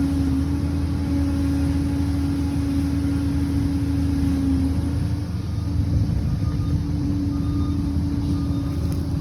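Liebherr PR 746 crawler dozer's diesel engine running steadily, with a deep rumble and a steady whine over it. The whine fades out about halfway through and comes back a couple of seconds later.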